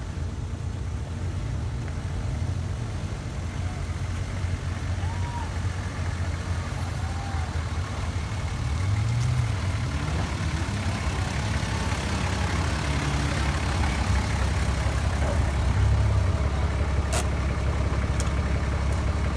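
A vehicle engine running steadily, its revs rising and falling briefly a couple of times, with a single sharp click near the end.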